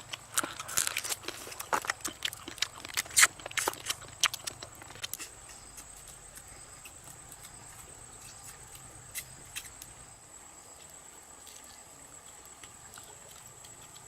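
Crab shells being bitten and cracked apart while eating: a run of sharp cracks and crunches over the first five seconds or so. After that only quiet outdoor background with a faint steady high-pitched tone.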